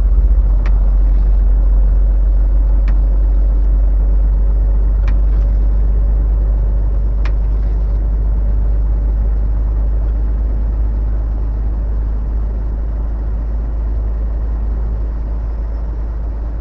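Steady low engine and road rumble of a semi-truck heard from inside the cab while driving. Four faint clicks sound about two seconds apart in the first half, and the rumble grows slightly quieter towards the end.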